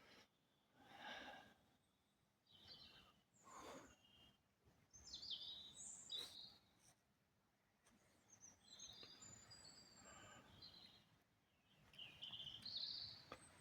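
Faint birdsong: scattered short, high chirps and whistled phrases, some rising or falling, heard over a quiet background.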